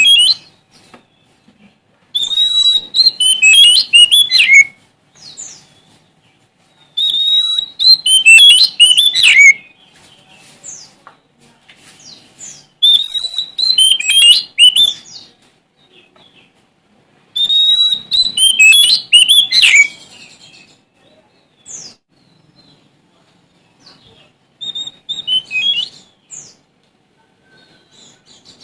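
Oriental magpie-robin of the Sumatran form singing: four loud phrases of quick, varied whistled notes, each about two and a half seconds long and a few seconds apart. Scattered softer notes fall between the phrases, and a shorter, quieter phrase comes near the end.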